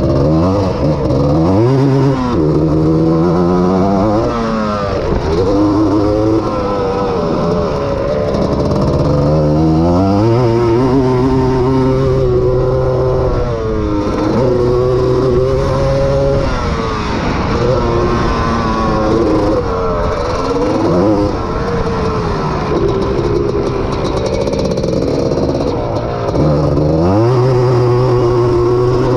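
Honda ATC250R three-wheeler's two-stroke single-cylinder engine at race pace, heard from on board. The engine pitch climbs sharply, holds and then falls off several times, with long stretches held near full throttle.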